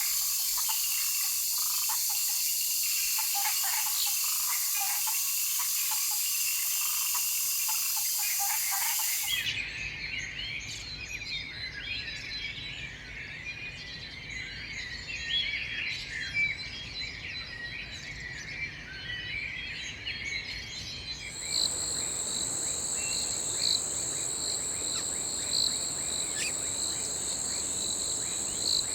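Forest wildlife sounds in three spliced sections that change abruptly. First comes a dense high insect drone with bird calls under it. Then, about nine seconds in, a chorus of many small birds chirping. Then, near twenty-one seconds in, a steady high-pitched insect trill returns with scattered chirps.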